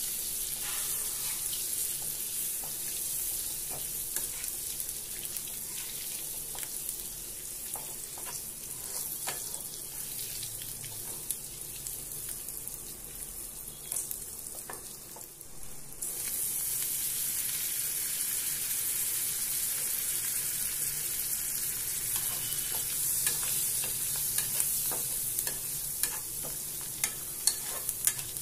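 Boiled eggs in masala sizzling in a non-stick kadai, with the clinks and scrapes of a steel spoon stirring and turning them. The sizzle suddenly grows louder about halfway through.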